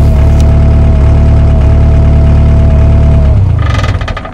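Engine running loud and steady close by, then dying away about three seconds in, with a brief high rattle as it fades.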